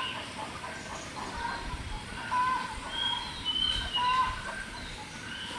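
Birds calling: short whistled notes that recur about once a second, some dipping or rising slightly in pitch, over a faint low rumble.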